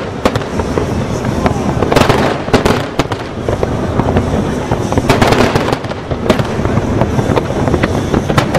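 Aerial fireworks display: a dense barrage of shell bursts, with repeated sharp bangs and crackle over a continuous rumble.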